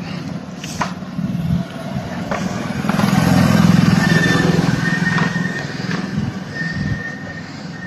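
A passing motor vehicle: a low engine hum that swells about three seconds in and then fades away, with a few light clicks.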